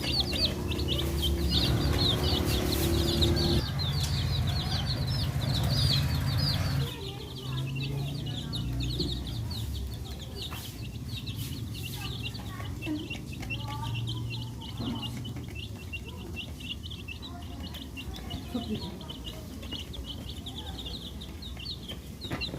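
A group of baby chicks peeping continuously, many short high peeps overlapping. A low rumble sits under them for the first seven seconds or so, then drops off, leaving the peeping clearer.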